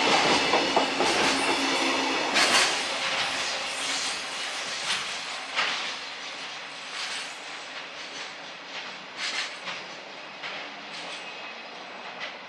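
The tail of a long freight container train passing and running away, its wagon wheels clattering and clicking over the track. The sound fades steadily as the last wagon recedes, with the clicks growing sparser and fainter.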